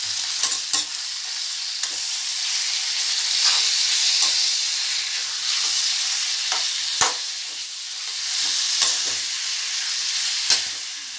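Raw chicken pieces and chopped onions sizzling in hot oil in a kadai, stirred with a metal spoon that scrapes and knocks against the pan a few times.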